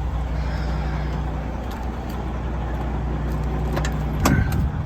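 Truck engine idling steadily, with a short sharp clatter a little over four seconds in.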